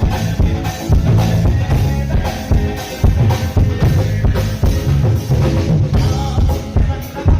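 Live band playing an instrumental passage: a drum kit keeps a steady beat with kick and snare over sustained keyboard chords.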